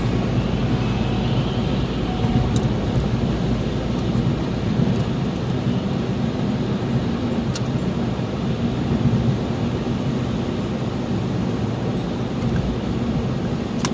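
Steady engine and road noise of a car being driven, with no break or change.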